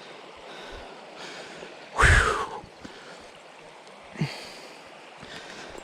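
A man's loud, sharp gasping breath about two seconds in and a short voiced breath a little after four seconds, over the steady rush of a mountain stream.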